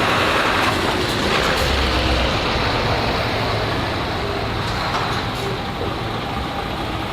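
Heavy truck engine running as a truck drives by, the sound easing off slowly over the seconds.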